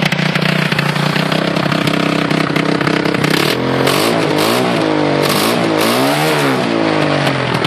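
Wildfire 200 cc four-wheeler's engine idling steadily, then revved up and back down about three times in quick succession in the second half.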